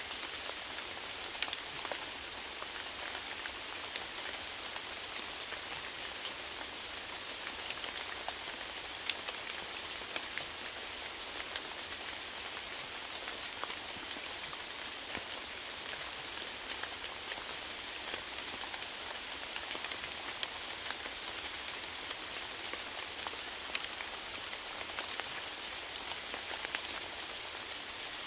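Steady rain falling, an even hiss with many sharp individual drops pattering on a surface.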